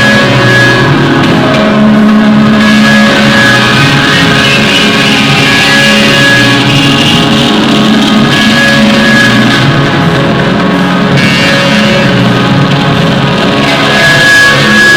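Loud rock music led by guitar, dense and sustained with long held notes throughout.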